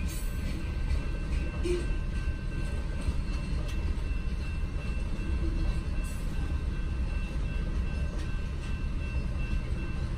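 Freight train of covered hopper cars rolling steadily past a level crossing: a continuous low rumble with scattered wheel-and-rail clicks, heard from inside a stopped car. A few faint steady high tones sit over it.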